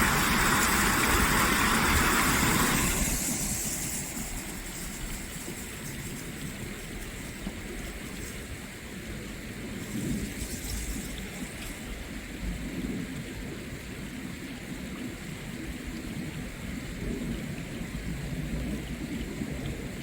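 Stream water rushing steadily, loud for about the first three seconds and then fainter, with a low rumble underneath.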